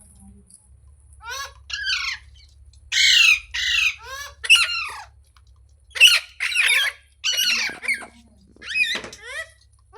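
Green parrot squawking: about a dozen short, harsh calls, mostly in quick pairs, starting about a second in, the loudest around the middle.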